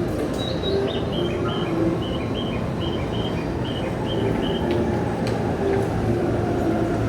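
Station platform noise from a train at the platform, with a run of short high chirps about two or three a second through the first few seconds.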